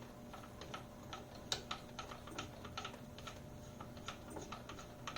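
Light, irregular clicking and ticking, several clicks a second, as the table of a small manual mill is hand-cranked to sweep a dial indicator along the vise jaw. A faint steady hum lies under the clicks.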